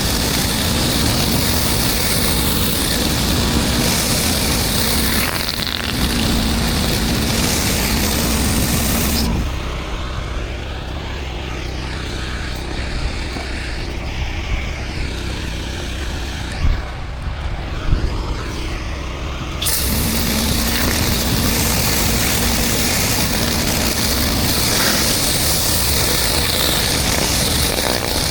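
Pressure washer running, its high-pressure spray hissing steadily on concrete over the machine's low hum. About nine seconds in the spray cuts off for about ten seconds, leaving a quieter rumble with a couple of knocks, then starts again.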